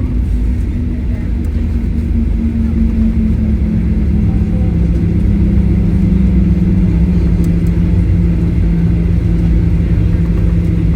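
Airliner cabin noise during the landing roll: a heavy low rumble from the engines and wheels on the runway, with an engine hum slowly falling in pitch as the aircraft slows.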